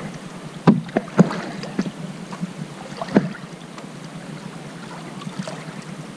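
Canoe on a lake, with a handful of sharp knocks in its first half over a faint steady hiss; the knocks are typical of a paddle or gear striking the hull.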